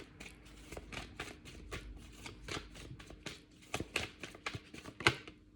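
Mystic Mondays tarot cards shuffled by hand: a quiet, irregular run of quick card flicks and taps, with a slightly sharper snap about five seconds in.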